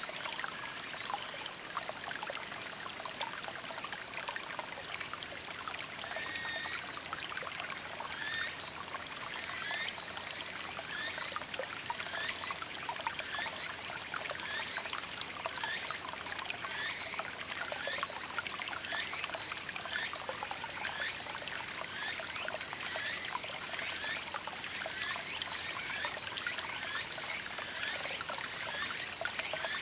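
Small mountain stream trickling and burbling steadily over stones. From about six seconds in, a short rising chirp repeats over the water roughly once a second.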